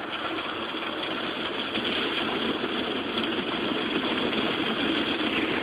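Automatic car wash machinery working over the car, heard from inside the cabin: a steady rushing of water spray and equipment on the body, growing slowly louder.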